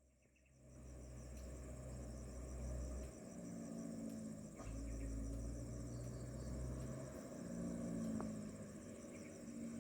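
Insects chirring steadily in a high, pulsing drone over a low diesel engine drone from the dump truck that shifts between a deeper and a higher pitch every few seconds.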